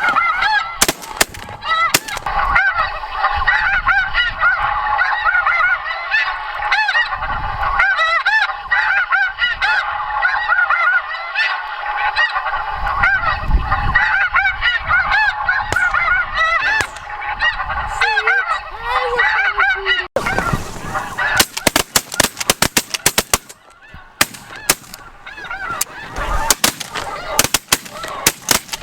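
A large flock of snow geese calling: a dense, continuous chorus of many overlapping high-pitched honks. About two-thirds of the way through the chorus cuts off abruptly, leaving fainter calling broken by a string of sharp clicks or knocks.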